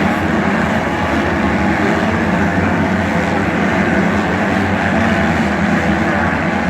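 Motocross motorcycle engines running, loud and steady.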